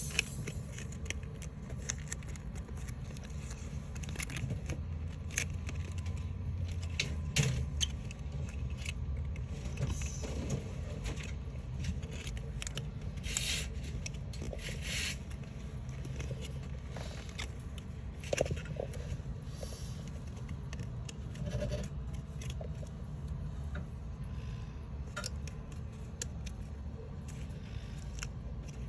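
Sheets of paper or card being handled at a work surface: scattered scrapes, rustles and light clicks over a steady low hum.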